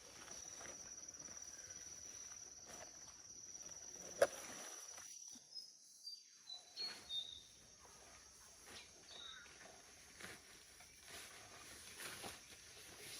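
Faint outdoor insect buzz, a steady high trill that stops about five seconds in, followed by a few short high chirps. A single sharp click a little over four seconds in is the loudest moment.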